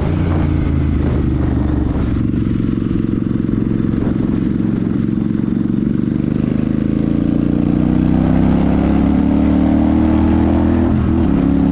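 Royal Enfield Super Meteor 650's 648 cc parallel-twin engine and exhaust under way on the road, running steadily and then rising gradually in pitch as the motorcycle accelerates, with a brief drop in pitch near the end.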